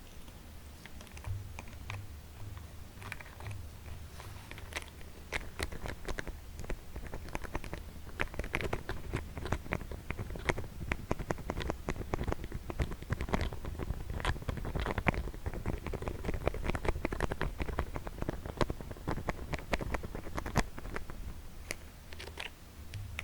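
Rapid, irregular fingertip and fingernail tapping, close to the microphone, sounding much like fast typing. The taps are sparse at first, come thick and fast through the middle and thin out near the end.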